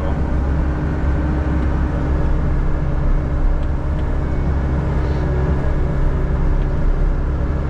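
John Deere 60G excavator's diesel engine running steadily, with a constant low hum.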